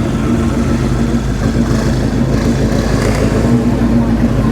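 An engine running steadily with an even low hum over outdoor background noise.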